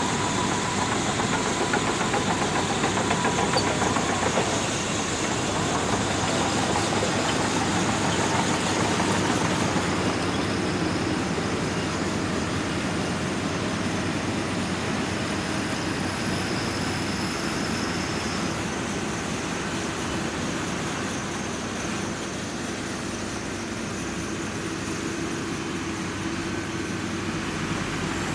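Shantui DH17C2 bulldozer's diesel engine running steadily while working, a continuous heavy mechanical rumble that eases slightly partway through.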